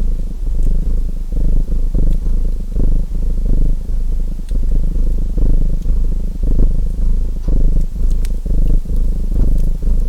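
Domestic cat purring close up, the purr swelling and fading about once a second, with a few faint crackles from a wood fire in a fireplace.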